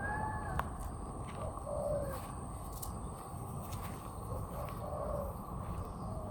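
Birds calling in an aviary: short arched calls at the start, then softer low calls about every few seconds, over a steady low rumble of background noise.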